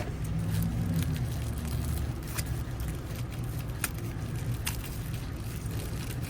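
Steady low hum of an idling vehicle engine, with a few light scattered clicks.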